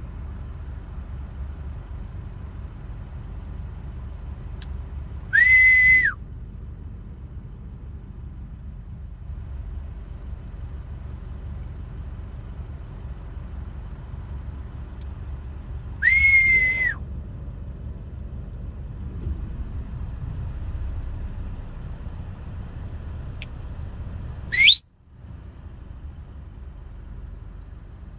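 Three short, loud whistles over a steady low rumble: two flat, even-pitched whistles about ten seconds apart, then a last one that rises sharply in pitch near the end.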